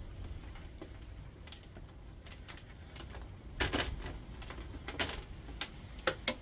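Irregular sharp clicks and snaps from hand tools and loose metal and plastic parts as an induction hob is pulled apart for its copper coils, with a cluster of louder clicks about three and a half seconds in.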